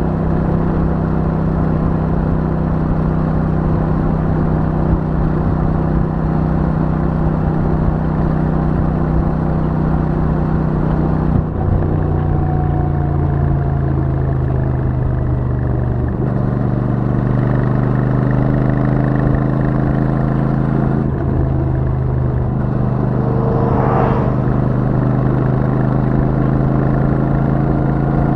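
Royal Enfield Super Meteor 650's parallel-twin engine on its stock exhaust, running steadily at cruising speed while the bike is ridden. The engine note shifts a few times, about 11, 16 and 21 seconds in.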